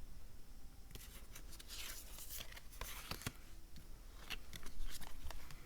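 Tarot and oracle cards being handled: papery slides and rubs as cards are drawn from the decks, with scattered light taps as they are set down.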